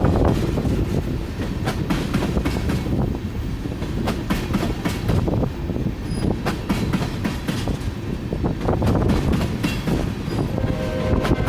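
Rail cars of a freight oil train rolling past, wheels clicking over rail joints above a steady low rumble.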